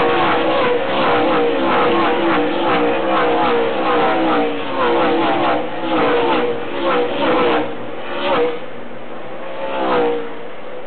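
A field of race trucks accelerating past close by on a restart, one engine after another, each note dropping in pitch as it goes by. The pack thins out after about eight seconds, and a last truck passes near the end.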